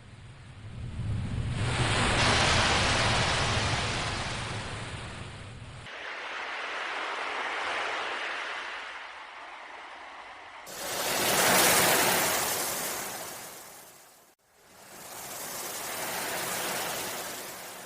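Sea waves washing in, four swells that each build and fade over a few seconds, the first with a deep rumble beneath it; the surges change abruptly from one to the next, with a brief hush in between near the end.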